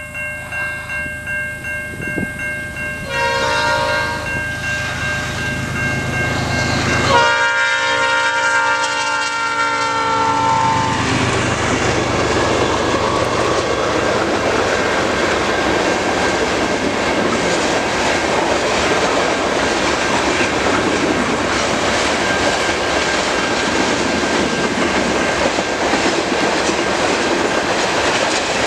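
A CN freight locomotive sounds its multi-note horn as it approaches, the chord sliding down in pitch as the locomotive passes, about seven seconds in. The horn stops after about eleven seconds, and a long string of covered grain hopper cars rolls by with a steady rumble and clatter of steel wheels on rail.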